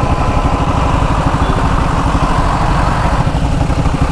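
Single-cylinder engine of a Hero XPulse 200 motorcycle running at low revs, stopped or creeping in a traffic jam, with a steady fast low pulsing. A higher hum alongside it fades about three seconds in.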